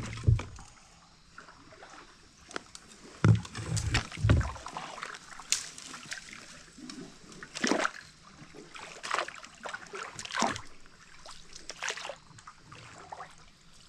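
Paddle strokes splashing and sloshing in river water, with a few dull knocks in the first few seconds.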